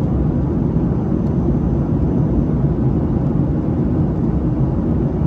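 Steady cabin drone inside a Boeing 737-700 airliner in flight: CFM56-7B turbofan engine and airflow noise, low and constant with no changes.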